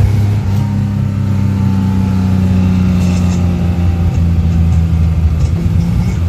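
The freshly rebuilt 2.4-litre straight-six of a 1970 Datsun 240Z, running on the road with a steady note that sinks slightly in pitch. The driver is alternating throttle and overrun to seat the new piston rings.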